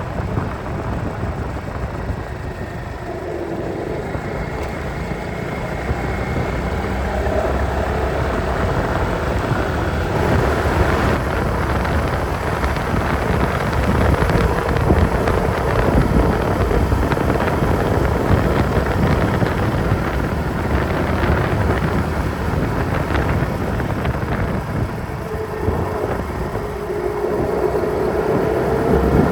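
Honda Reflex 250 scooter riding along, with wind rushing over a handlebar-mounted phone's microphone and the engine's drone underneath. The engine's pitch rises and falls faintly with speed.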